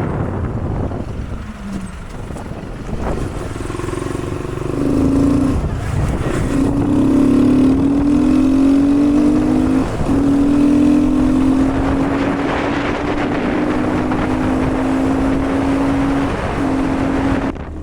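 Honda Grom's single-cylinder engine running while riding, its note steady but breaking off briefly a few times as it shifts gear, over wind buffeting the microphone.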